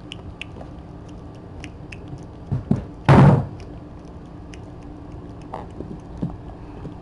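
A couple of soft knocks, then a loud thud about three seconds in, like a door or lid being shut, over faint scattered clicks.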